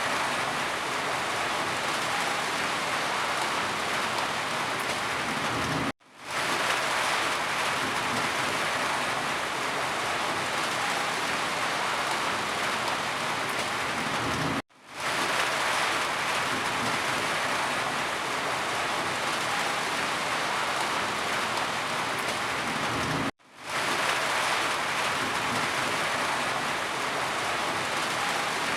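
Steady, heavy rain falling. The rain drops out three times, at roughly even intervals, cutting off suddenly and fading straight back in.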